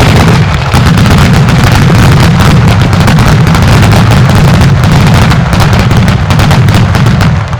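Mascletà barrage of salutes and truenos: an unbroken, very loud rattle of bangs so dense they merge into one roar, the kind of build-up that marks a mascletà's terremoto finale. It begins to thin out right at the end.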